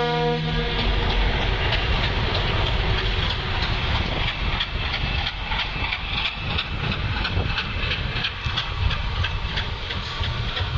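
A train horn sounding, cutting off just under a second in, then the Silkcity Express train running on the rails: a steady rumble with rapid clattering of wheels over rail joints.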